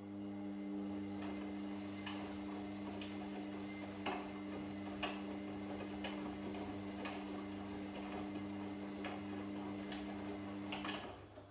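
Washing machine running a wash turn: the drum motor hums steadily while a click sounds about once a second as the drum turns, then the motor stops near the end.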